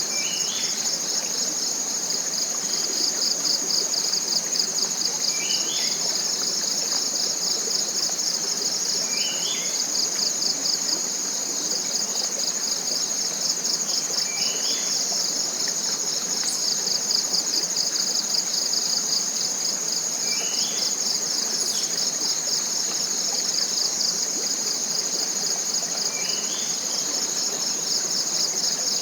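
Tropical forest insect chorus: a loud, steady, finely pulsing high trill that runs on without a break. Over it, a bird gives a short rising call about every five seconds, six times.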